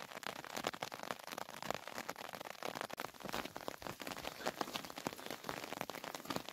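Steady rain: a dense patter of many individual drops hitting close surfaces.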